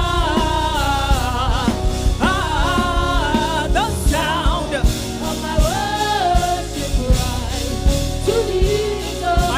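Live gospel worship music: a lead singer holding long, bending notes over a band with drum kit and sustained chords.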